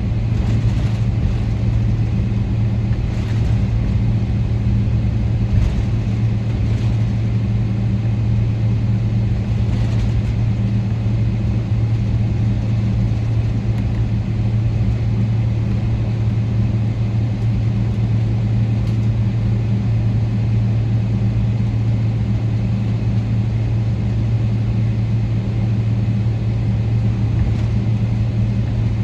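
Inside the cabin of a Boeing 777-300ER, its GE90 engines make a steady drone with a constant low hum over a broad rumble. It holds at one level, with a few faint knocks.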